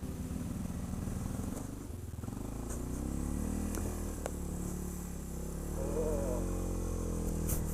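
ATV engine running, its revs rising and falling as it works through snow, with a swell in revs about three quarters of the way through. A few brief sharp clicks or knocks come through during the run.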